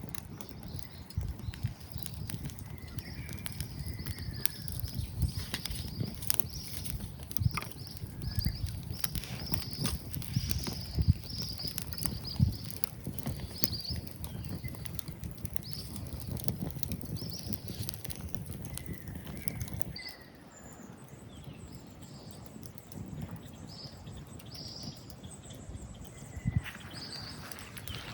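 Wood fire crackling and popping in a small fire pit: many sharp irregular pops over a low rumble. About twenty seconds in, the rumble suddenly drops away and the pops thin out.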